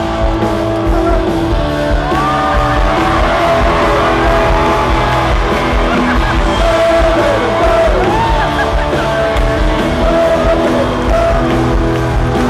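Live band playing a funk groove on drums, bass and guitar, with crowd voices yelling and whooping over it.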